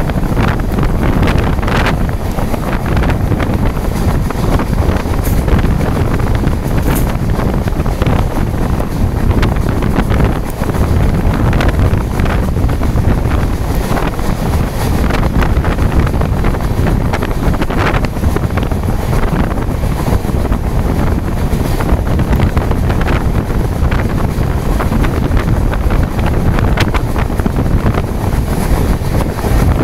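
Loud, steady wind buffeting the microphone in heavy rain, with scattered sharp clicks throughout.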